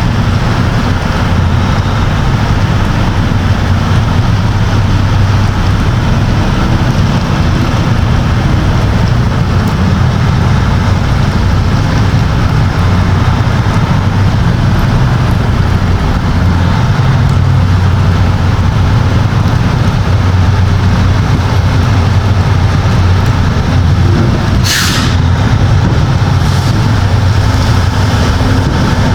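Semi truck's diesel engine running steadily, heard from inside the cab, with a short hiss of released air near the end.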